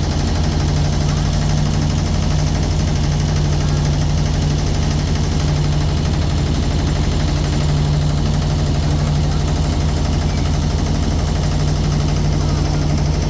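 Boat engine running steadily with an even, low drone.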